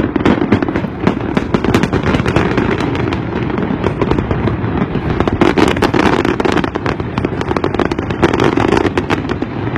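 Fireworks display: a dense, unbroken barrage of bangs and crackles, many bursts overlapping one another.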